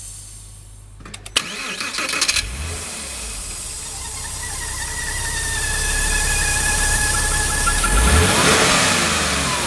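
Porsche Boxster 986 flat-six cranked over by the starter, catching after about a second, then idling with a thin high whistle over the engine note, the noise of a blocked air-oil separator. About eight seconds in, the sound swells louder.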